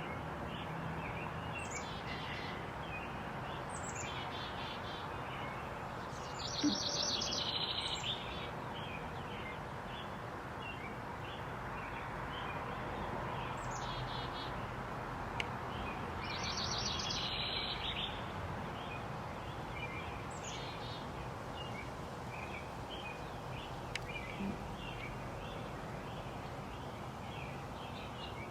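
Backyard birds calling: repeated short high calls that slide downward, two longer, louder call phrases about a third and two-thirds of the way through, and small chirps scattered throughout, over a steady background hiss.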